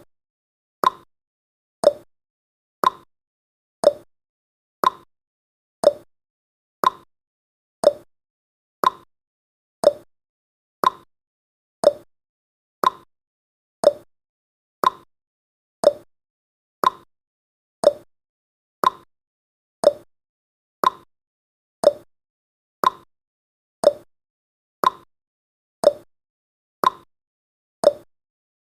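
Countdown timer's ticking sound effect: short sharp ticks at a steady one per second.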